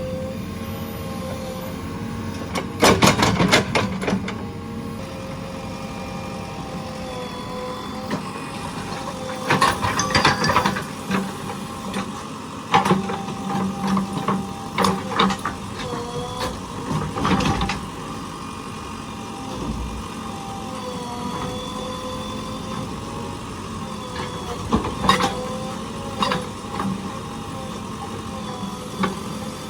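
JCB 3DX backhoe loader's diesel engine running steadily under digging work. Groups of metallic clanks and knocks come from the backhoe arm and bucket, about 3 seconds in, repeatedly from about 10 to 17 seconds, and again near 25 seconds.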